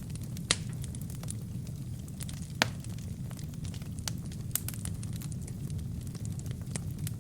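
Wood fire burning in a fireplace: a steady low rumble of flames with scattered sharp pops and crackles from the burning logs, two of them louder, about half a second and two and a half seconds in.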